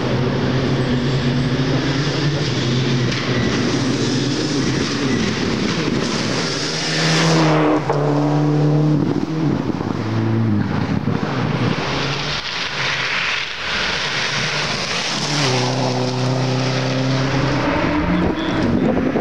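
Rally cars at high revs on a gravel stage. One passes close about seven seconds in, its engine note dropping as it goes away, and another comes up near the end at full throttle.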